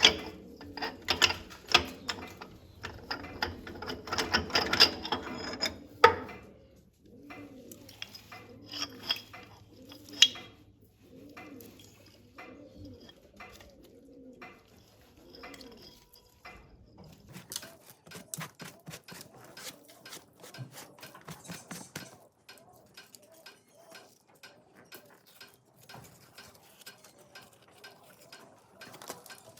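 A bird cooing over and over, about once a second, mixed with scattered sharp clicks and knocks; the clicks are densest in the first few seconds and again in the second half.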